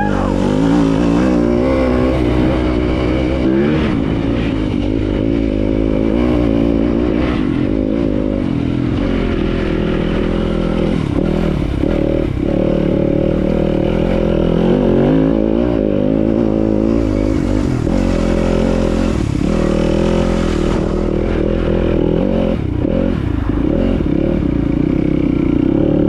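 Dirt bike engine running under load as it is ridden, its pitch rising and falling repeatedly with the throttle.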